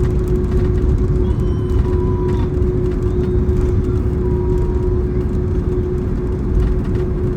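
Cabin noise inside a Boeing 767-300ER around its landing: a loud, steady low rumble of the engines and airflow, with one steady hum over it.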